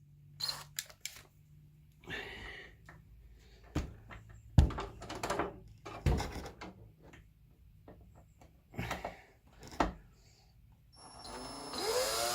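Scattered clicks and knocks of screws, wood and a cordless drill being handled, then near the end a cordless drill motor spins up with a rising whine, trying to drive a wood screw into pine without a pilot hole.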